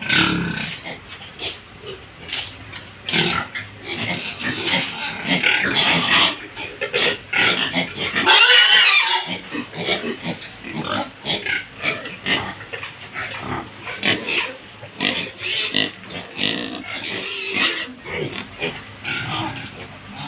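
Pigs grunting: many short, irregular calls one after another, loudest in a stretch about eight seconds in.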